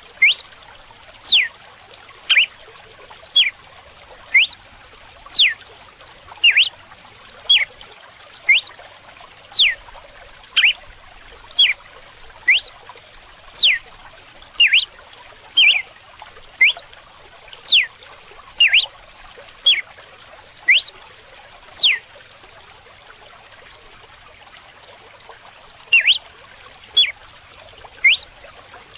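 Red-cowled cardinal (galo-de-campina) singing its 'açoite' whip song: short, sharp sweeping notes about one a second, pausing for a few seconds near the end before resuming. Steady trickling running water underneath.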